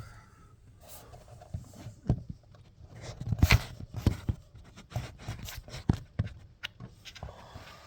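Heartland RV leveling jack system making an irregular series of loud knocks, pops and creaks, with the sharpest cluster about three and a half seconds in.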